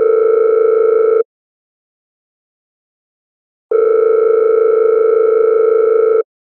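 A steady buzzing tone at one fixed pitch, held for a few seconds at a time. It sounds twice, cutting off about a second in and coming back about a second and a half later, with dead silence between.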